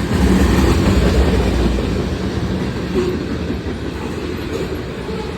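Freight train cars rolling past close by: a steady rumble of wheels on rail, loudest in the first couple of seconds.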